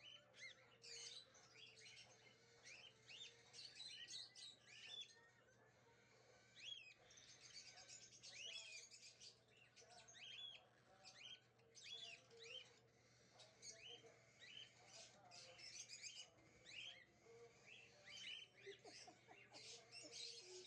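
Young hand-fed cockatiels chirping faintly: many short, quick rising chirps scattered throughout.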